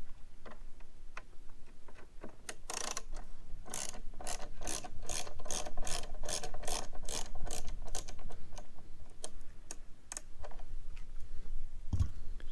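Ratchet driver with a T25 Torx bit clicking as it backs out the tail light's fixing screws: a run of regular ratchet clicks, about three a second, from about four to eight seconds in, with scattered clicks around it and a soft thump near the end.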